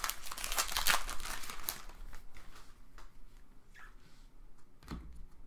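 Trading card pack wrapper crinkling for about two seconds as it is opened, then a few faint rustles and a soft thump near the end.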